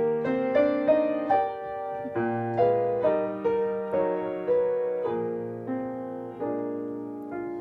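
Piano playing a slow chordal introduction, the chords struck and left to ring and fade.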